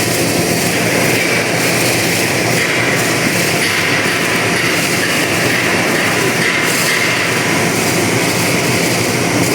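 Machine-shop machinery running with a loud, steady, rushing mechanical noise and no distinct knocks or strikes.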